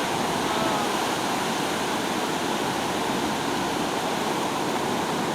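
Ocean surf washing steadily onto a beach, an even rushing hiss with no breaks.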